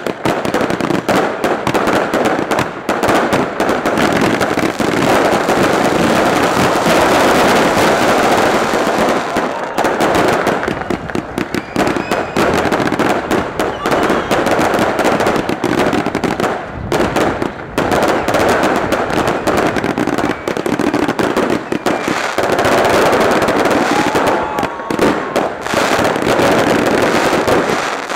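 Fireworks display: a dense, continuous barrage of bangs and crackles, with brief lulls about ten and seventeen seconds in.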